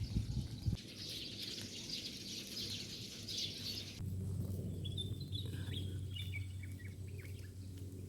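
Birds chirping and singing. For the first few seconds there is a dense chorus of high chirps, which cuts off suddenly about halfway through. After that, a bird sings a run of whistled notes that step down in pitch, over a steady low hum.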